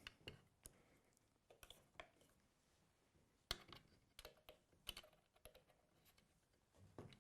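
Faint, irregular small clicks and taps of metal parts being handled as a profile cutter is fitted into the collet of an OF 1010 router.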